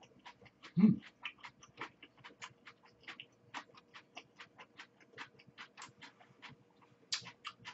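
Close-up chewing and mouth sounds: a steady run of small wet clicks, several a second, with one louder low sound about a second in.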